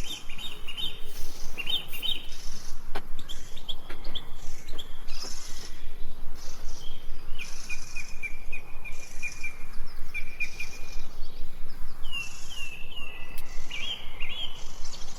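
Small birds chirping in short repeated phrases and trills, over an insect chorus that pulses about once a second.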